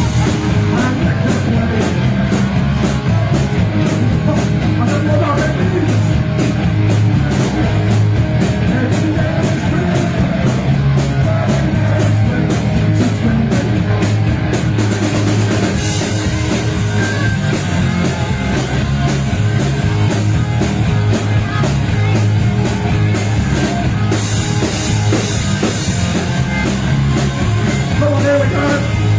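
Live thrash-punk band playing a song at full volume: distorted electric guitars and bass over a fast drum kit.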